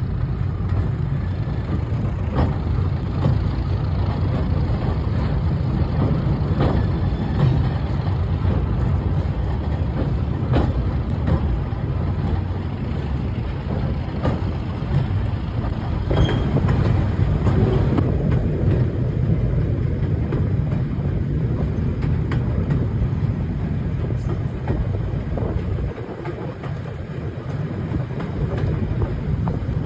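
British Rail Class 31 diesel locomotive working hard on a heavy freight train: its English Electric V12 diesel gives a steady low rumble, with sharp clicks and clanks now and then. The sound drops somewhat near the end.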